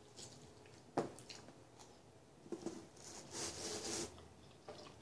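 Faint close-up mouth sounds of a person chewing pizza, with a sharp click about a second in and a louder stretch of chewing about three to four seconds in.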